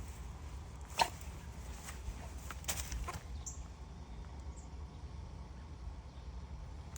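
Outdoor ambience with a steady low rumble, a sharp click about a second in, a few fainter clicks around three seconds, and a brief high chirp soon after.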